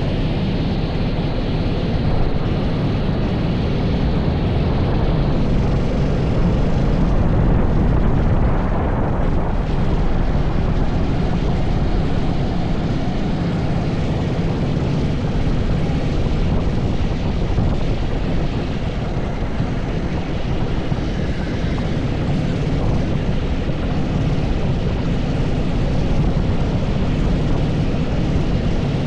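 80cc kart engine running continuously at speed, its level rising and falling only slightly.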